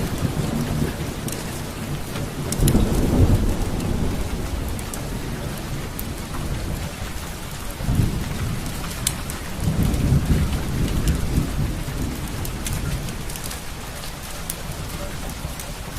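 Steady rain with rolls of thunder swelling up about three, eight and ten seconds in, and scattered sharp crackles over the top.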